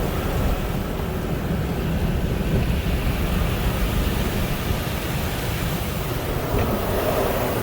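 Steady rushing noise of car wash tunnel equipment, a little stronger near the end.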